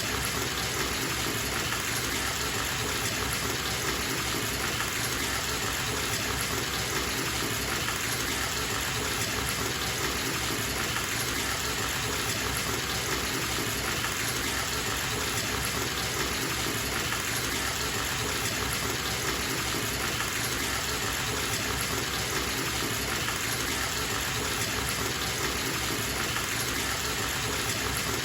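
Bathtub tap running steadily, water gushing into the tub as it fills.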